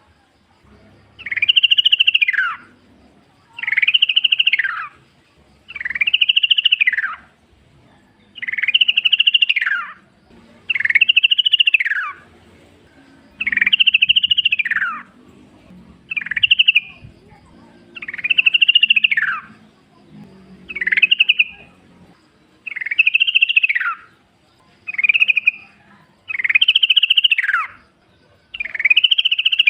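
Yellow-vented bulbul (trucukan) calling over and over: a loud, rising-then-falling phrase about every two seconds, a few of them cut shorter.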